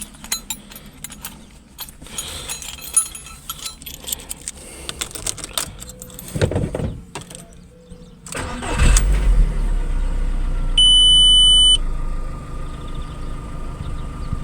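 Handling clicks and rattles, then about nine seconds in the Seat Ibiza II's 1.4 16v four-cylinder petrol engine cranks, catches and settles into a steady idle, with a short electronic beep soon after it starts. This is a test start with new spark plugs and a new ignition coil fitted against a cylinder-3 misfire, and no air filter in place.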